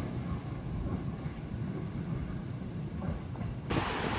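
Train running, a steady low rumble. Near the end it cuts off suddenly into a steady rushing hiss.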